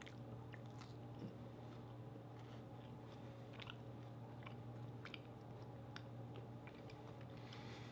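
Faint chewing of a mouthful of chocolate bar with Oreo cream and cookie pieces, with a few soft scattered mouth clicks. A steady low hum runs underneath.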